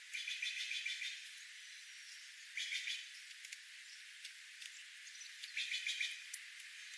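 Small birds chirping: three short bursts of rapid repeated notes, the first lasting about a second, the others near the middle and near the end, over a faint steady hiss.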